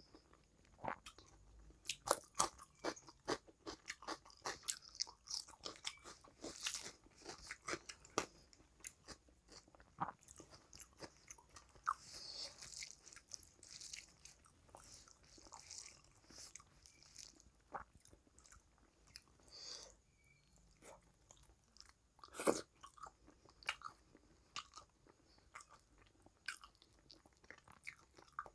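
Close-miked eating sounds: chewing of rice and curry, and fingers mixing rice with curry, as an irregular run of short wet clicks and smacks, with one louder one about three quarters of the way through.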